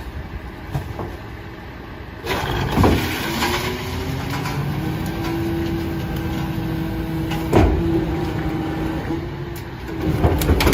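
Garbage truck working: a low engine rumble jumps louder about two seconds in, with a steady whine through the middle and two loud knocks, about three and seven and a half seconds in.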